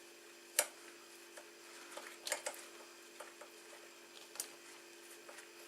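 A few sharp plastic clicks and knocks, scattered about a second apart, as a plastic side cover is worked loose from a motorcycle frame. A steady faint hum runs underneath.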